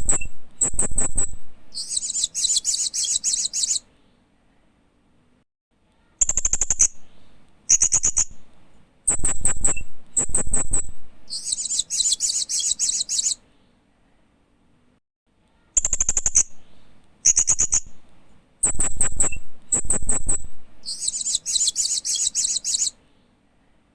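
Hanging parrot (Loriculus) chirping: three bouts of quick, very high-pitched chirps, each ending in a short buzzy trill, with pauses of about two seconds between bouts.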